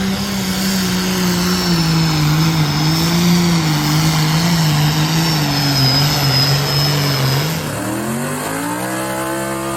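Pulling tractor's engine running hard at high revs over a wide roar, its pitch wavering and slowly sagging as it labours under load. Near the end the roar drops away and a cleaner tone rises in pitch.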